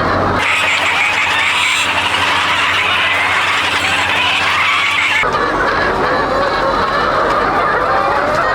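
A large flock of chickens clucking and squawking, many birds calling over one another in a dense, continuous din, with abrupt shifts in the mix about half a second and about five seconds in.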